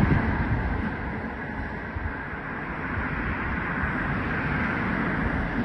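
Distant freight train approaching along the electrified line, a steady low rumble and hiss, with wind buffeting the microphone.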